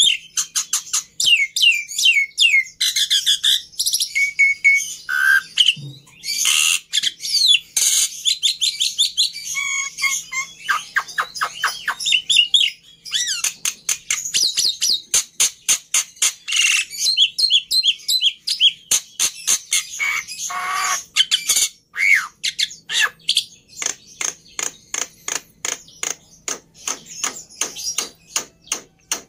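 Black-winged starling (jalak putih) singing almost without pause: a varied mix of whistled and gliding notes and harsh squawks, with runs of sharp clicking notes repeated about three times a second in the second half.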